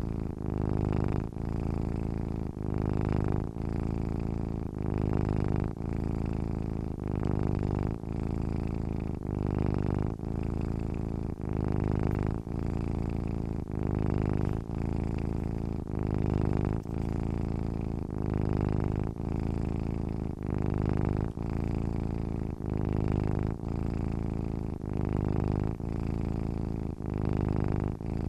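A sleeping domestic cat purring steadily. The low rumble breaks briefly about once a second as the breath turns between in and out.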